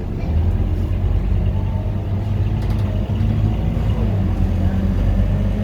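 Scania K230UB bus's five-cylinder diesel engine running with a steady low drone, getting a little louder just after the start.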